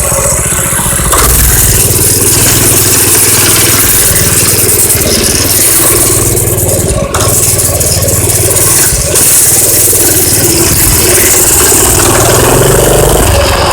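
Minibike's small engine running loudly and steadily, with a brief dip about seven seconds in.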